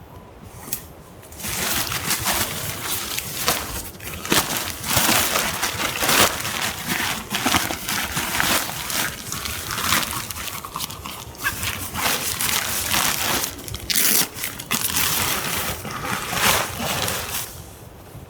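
Close, continuous rustling and scraping with many short crackling strokes, starting about a second and a half in and stopping near the end.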